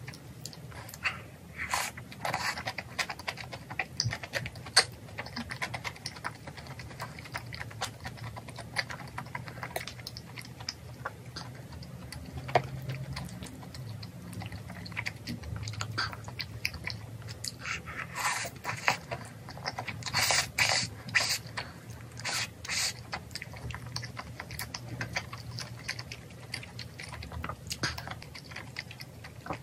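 Close-up eating sounds: chewing of soft, chewy spicy rice cakes and glass noodles, with irregular wet mouth noises and short clicks, in denser clusters about two-thirds of the way through.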